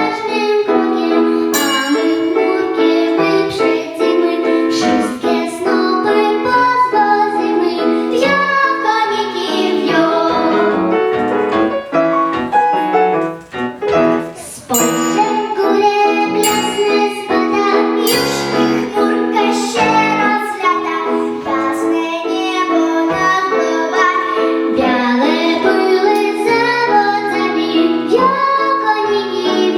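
A young voice singing a melodic song in Polish over piano or keyboard accompaniment, with a brief dip in loudness about halfway through.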